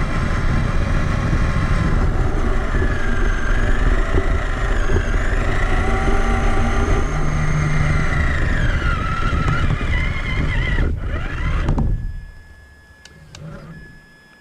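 Traxxas Summit electric RC truck driving, heard from a camera mounted on its body: a motor and gear whine that rises and falls with speed over a loud rumble from the tyres and chassis. About twelve seconds in the rumble stops and it goes much quieter, leaving a faint steady whine.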